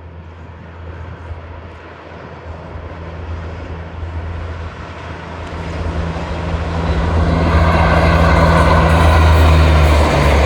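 A train approaching, its locomotive giving a steady low drone that grows louder over several seconds as the rushing noise of the train builds.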